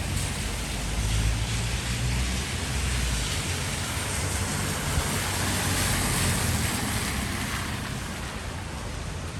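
Steady rushing hiss of rain and traffic on wet streets, with a low rumble for the first three seconds or so that then fades.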